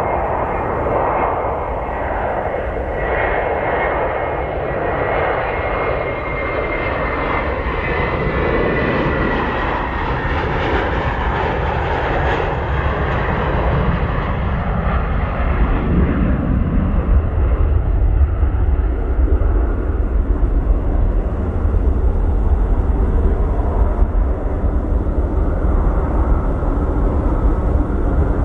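Jet airliner passing close by on its landing approach. A high engine whine falls slowly in pitch, the rushing jet noise peaks about halfway through, and a low rumble grows louder after that.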